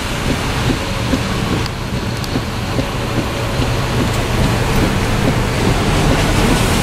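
Heavy thunderstorm rain and wind: a loud, steady rush with a low rumble underneath.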